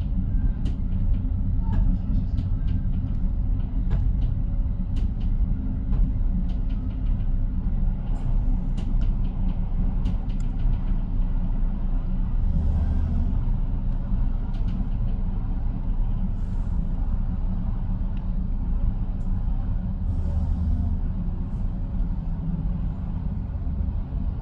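Commuter train car running along the line, heard from inside: a steady low rumble of wheels on rail with scattered light clicks and rattles.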